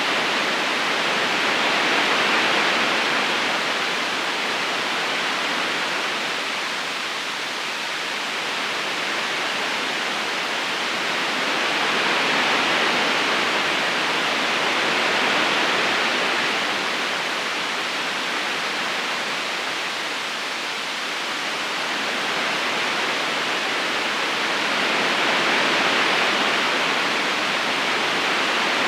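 Steady rushing of a river current, an even hiss of water that swells and eases slowly about every ten seconds.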